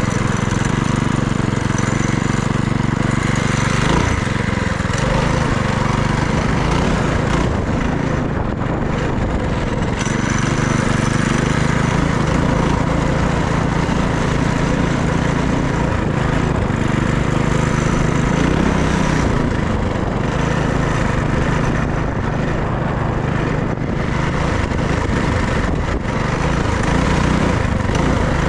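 FRP GMB100 minibike's small engine running steadily while riding, its pitch wavering slightly with the throttle, under a steady rush of wind noise.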